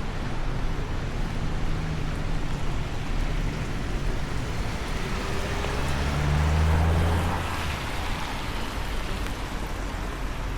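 Steady rain noise, with a vehicle's engine passing close by and loudest about six to seven seconds in.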